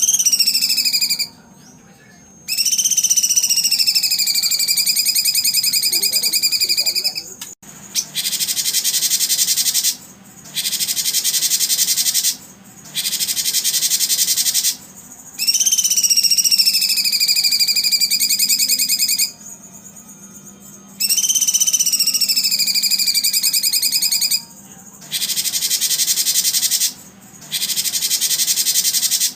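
A songbird singing in long phrases: a loud sliding whistle that falls and then levels off, alternating with a high, dense buzzy trill. Each phrase lasts about 2 to 4 seconds, with short pauses between them.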